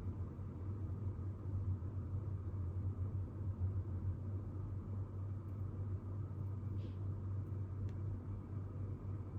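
Steady low hum over a faint even hiss, the background of a quiet room. A faint brief rustle comes about seven seconds in and a light click about a second later.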